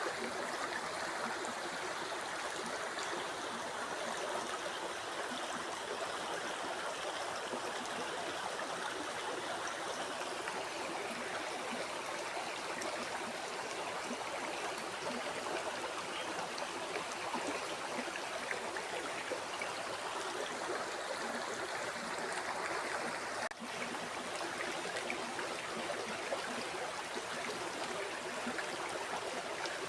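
River water flowing, a steady even rush of moving water, with a momentary dropout about three-quarters of the way through.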